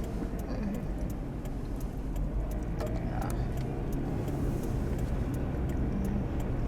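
A car's steady low road and engine rumble, heard from inside the cabin while driving, with scattered faint clicks.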